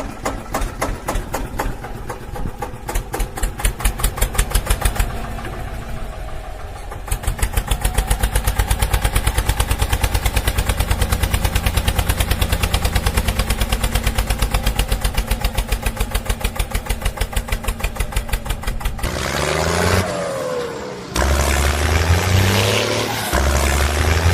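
Tractor engine chugging in a steady beat that quickens after several seconds into a fast, even chug. Near the end the chug stops and a revving sound with rising and falling pitch takes over.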